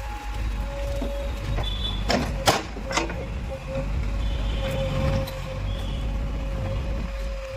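JCB backhoe loader's diesel engine running steadily under load, with a thin steady whine over the low rumble. Three sharp metallic knocks come about two to three seconds in, the middle one the loudest.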